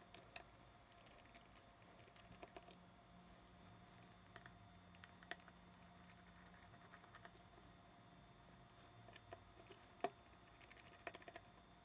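Faint, scattered small clicks and ticks of a 00 Phillips screwdriver working tiny screws out of the back of a Sony a7s camera, the loudest click about ten seconds in, over a faint steady hum.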